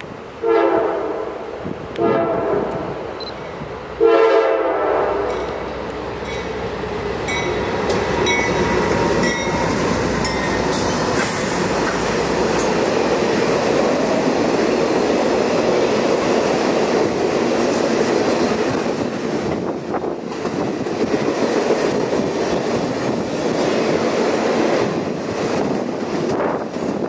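Diesel locomotive air horn sounding three blasts, the last the longest, as a long circus train approaches. The locomotives and a string of streamlined passenger cars then roll past with a steady rumble and clickety-clack of wheels on rail, with a brief high squeal about eight seconds in.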